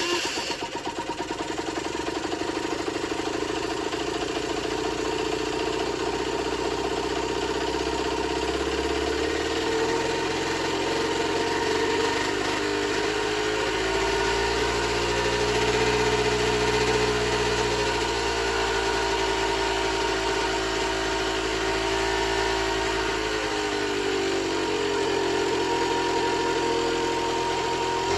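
Generic Trigger SM 50cc two-stroke engine idling after being started, its speed slowly drifting up and down rather than holding steady. It is not running 100%.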